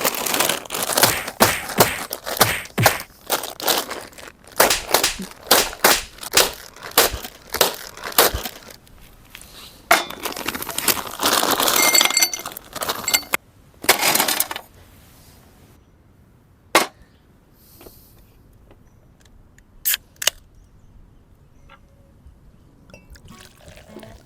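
A fast, irregular run of sharp cracks and clatters, a few per second, with a denser rattling stretch about ten to thirteen seconds in, then it stops; after that only two single sharp clicks, about three seconds apart.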